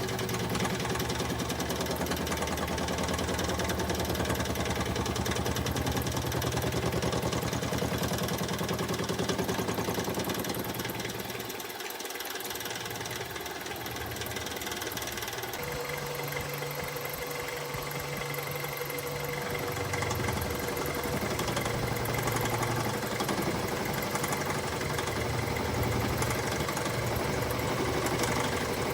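Milling machine taking a cut in steel bar stock with a face mill, the inserts chattering as they strike the work. The note dips briefly about twelve seconds in and then settles at a different pitch.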